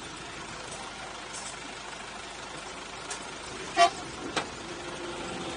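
Narrow-gauge tourist train running, heard from an open carriage: a steady rumble of wheels on the track. About four seconds in comes one loud sharp clack, with a smaller one just after it.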